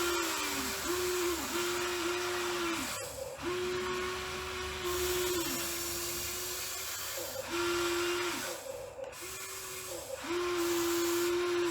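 Electric pump motor of a radio-controlled hydraulic construction model whining at a steady pitch in repeated short runs, about eight in all, each lasting half a second to two seconds and sagging in pitch as it cuts out, as the machine's hydraulics are worked in short bursts.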